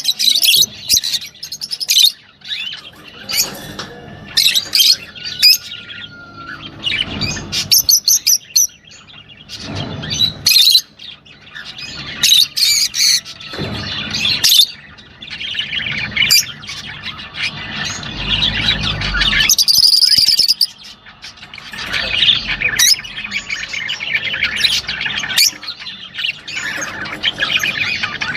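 Cage birds chirping and squawking in a dense, busy chorus of overlapping calls, with a few short whistled notes.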